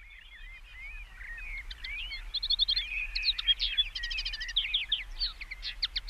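Several songbirds singing at once: whistles, warbled phrases and fast trilled chirps that thicken into a dense chorus after the first second or two.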